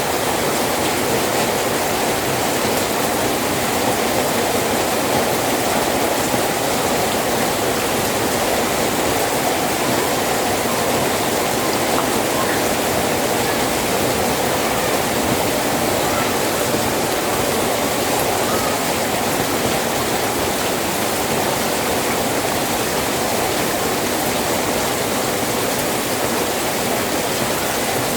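Steady rain falling, an even unbroken hiss that neither builds nor eases.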